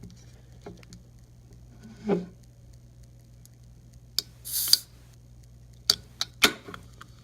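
Handling of a Dr Pepper can: a few sharp clicks and knocks, with a short hiss a little past halfway through, right after a click.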